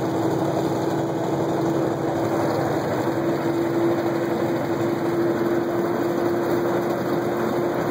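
Semi truck's diesel engine and road noise heard inside the cab at highway speed while overtaking, running steadily with a constant hum.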